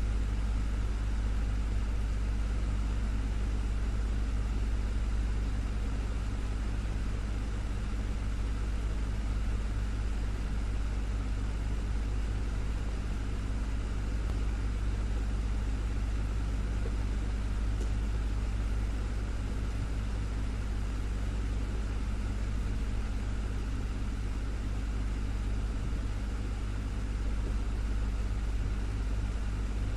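Desktop fan running steadily: a constant low hum with a faint steady tone above it and an even airy hiss.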